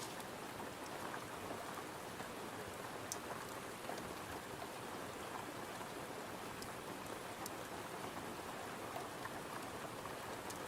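Steady rain falling, with a few scattered sharp ticks.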